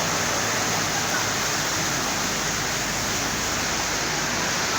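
Floodwater of a swollen river rushing past in a steady, dense wash of noise.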